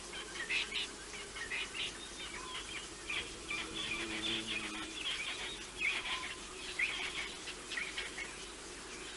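Several small birds chirping and calling from the bush, many short calls overlapping, with a faint low hum in the middle.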